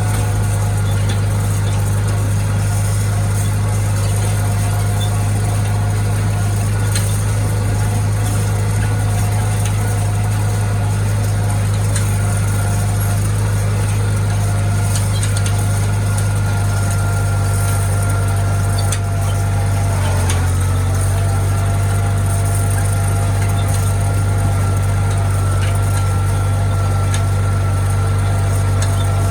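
International tractor engine running steadily under a hay-raking load, with a deep, even hum and a steady whine above it. About twenty seconds in the pitch dips briefly, then settles again.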